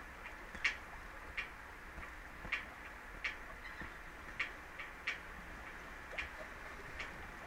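A run of sharp ticks, roughly one a second and not quite evenly spaced, over a steady hum and low rumble.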